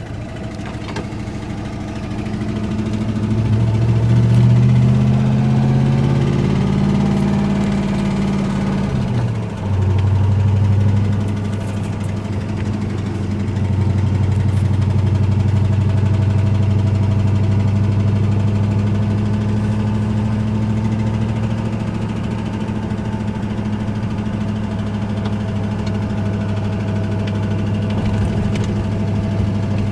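Ford Ranger's 302 (5.0 L) V8 engine running under way, its pitch rising and falling through the first ten seconds with a brief dip near nine seconds in, then holding steady. The engine has a rod knock, bad enough to be called the worst yet.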